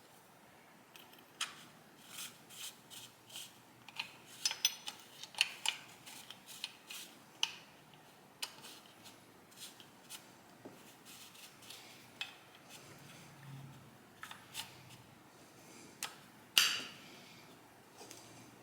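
Small metal parts of a motorcycle carburetor bank's throttle linkage clicking and clinking as they are handled and fitted by hand, in irregular light taps with a busier run a few seconds in and one sharper clack near the end.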